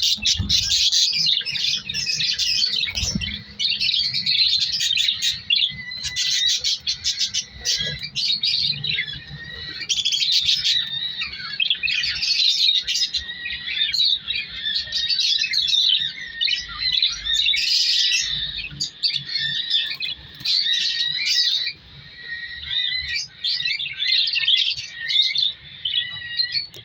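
Budgerigars chirping and chattering almost without pause, with quick, high, overlapping calls.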